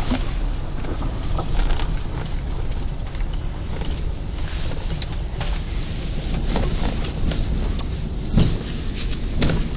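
Ford F-150 pickup driving, a steady low rumble of engine and road noise heard from inside the cab, with a brief thump about eight and a half seconds in.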